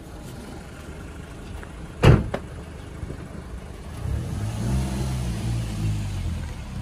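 Audi TT's engine idling with a steady low hum that grows fuller about four seconds in. A single sharp thump sounds about two seconds in.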